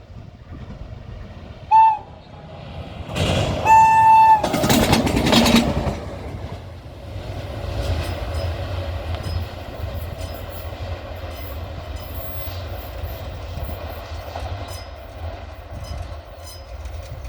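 WAG-9 electric locomotive running light at high speed: a short horn toot, then a longer loud horn blast as it rushes past, followed by a steady rumble and clickety-clack of its wheels on the rails.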